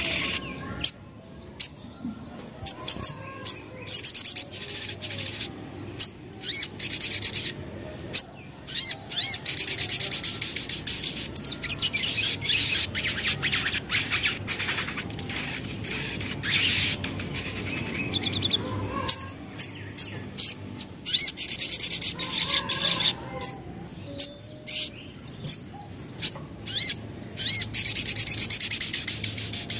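Crimson sunbird (sogon) singing in fast bursts of high-pitched, rapid chirping trills, broken by short pauses. This is the excited, aroused song that such recordings are used to provoke in other birds.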